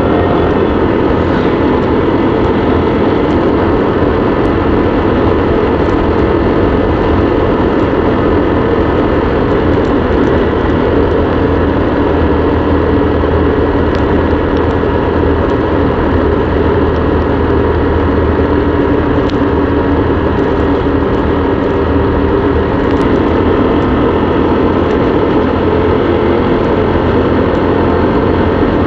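Motorbike engine running at a steady cruise, mixed with continuous road and wind noise, with no clear rise or fall in speed.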